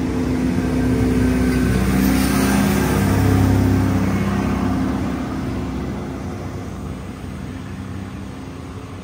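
Diesel passenger railcar train pulling out of the station and rolling past: engine drone with low held notes that shift in steps, plus the rumble of the cars on the track, fading steadily over the second half as the train moves away.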